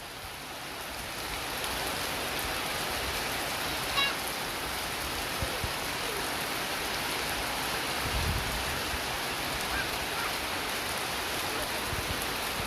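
Steady rain falling and pattering on surfaces, an even hiss that grows a little louder in the first couple of seconds and then holds. There are a few faint knocks and a soft low thump partway through.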